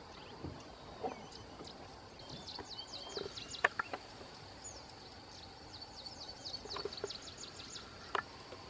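Wild birds giving quick runs of high, repeated chirps over a faint steady high-pitched drone, with a few sharp clicks, the loudest about three and a half seconds in.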